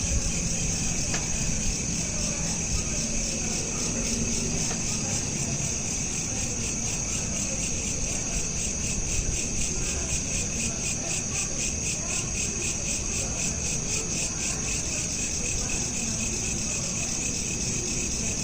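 Crickets chirping in a steady, continuous chorus, a high trill pulsing rapidly and evenly, over a low background rumble.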